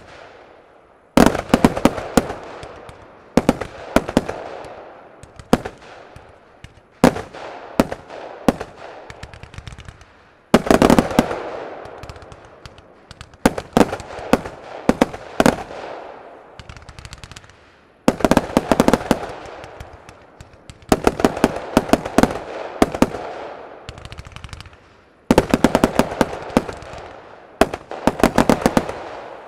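Fireworks firing in rapid volleys: each volley is a burst of sharp cracks followed by crackling as the stars break. About eight volleys come a few seconds apart.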